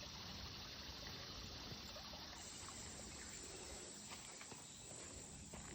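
Faint outdoor background hiss with a few soft footsteps on a trail; a thin, high, steady tone comes in a little over two seconds in.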